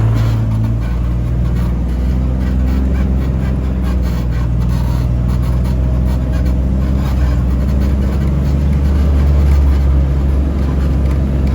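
Off-road 4x4's engine running at low speed while crawling a rocky trail, heard from inside the cab as a steady low drone whose pitch shifts slightly as the throttle changes.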